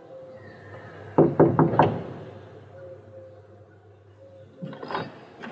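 Four quick, loud knocks on a door about a second in, followed near the end by a fainter clatter.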